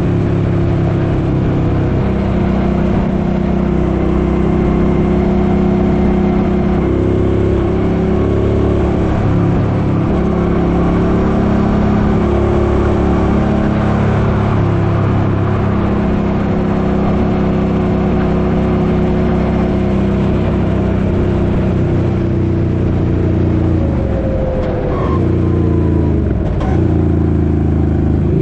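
Suzuki Boulevard M50 motorcycle's V-twin engine running steadily while riding. The engine note drops about 25 seconds in as the bike slows, then picks up again near the end.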